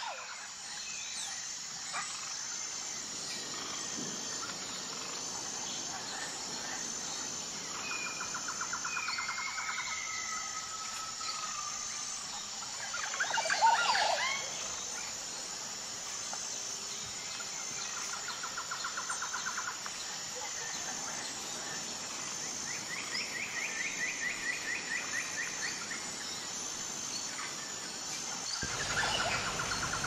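Songbird calls and song: several short fast trills and a louder cluster of calls about halfway through, over a steady high hiss.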